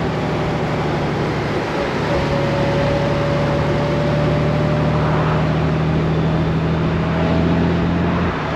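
Honda Gold Wing DCT's flat-six engine running at a steady road speed, with wind and road noise over it. The engine note changes about two seconds in and again near the end.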